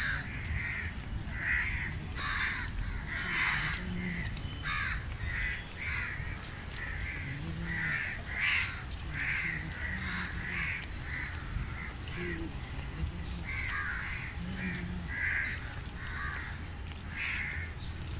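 Several birds calling, short calls repeating one or two times a second, over a steady low background noise.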